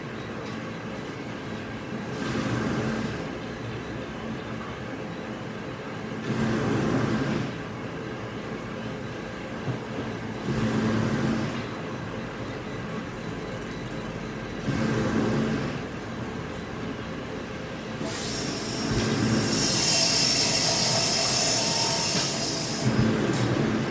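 Plywood mill machinery running steadily, with a louder swell that comes back about every four seconds as the machine cycles. A loud hiss starts about 18 seconds in and stops about five seconds later.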